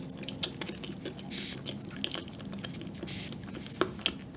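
Close-miked chewing and mouth sounds of someone eating a thick, dense cup pudding: many small wet clicks and smacks, with two short hissy bursts, one in the first half and one in the second.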